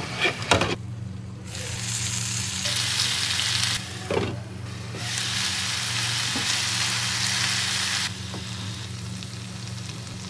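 Masala-coated chicken drumsticks frying in a non-stick pan: a steady sizzle that swells twice and then eases, with a few sharp clicks in the first second and a low steady hum underneath.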